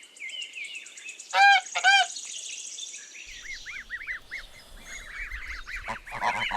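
Goose honking: two loud honks about half a second apart, then a run of quieter, quick high chirps over a low rumble.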